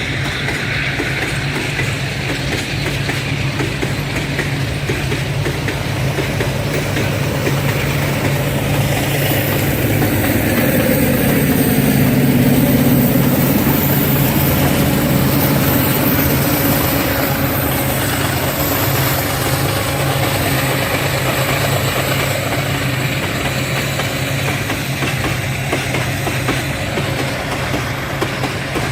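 Diesel-hauled freight train passing: locomotive engines running steadily under the rolling rumble and clatter of the wagons on the rails. The sound swells to its loudest about twelve seconds in, then eases a little.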